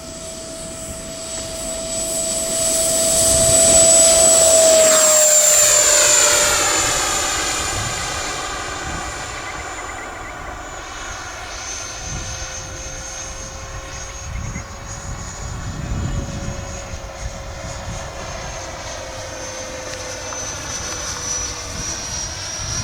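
Electric ducted-fan RC jet flying a pass: its high whine grows louder, drops in pitch as it goes by about five seconds in, then carries on steadily with the pitch sinking slowly.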